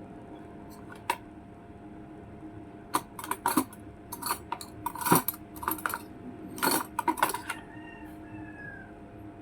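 Metal utensils and dishes clinking and clattering in a kitchen: a string of sharp clicks and clatters between about three and seven and a half seconds in, over a steady appliance hum.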